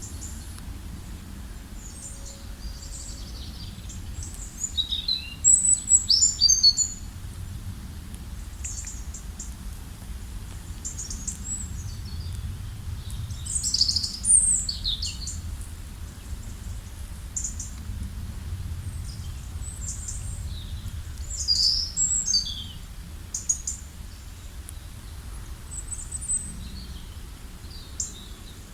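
Several birds chirping and calling in short, scattered bursts of high notes, busiest in three clusters, over a steady low rumble.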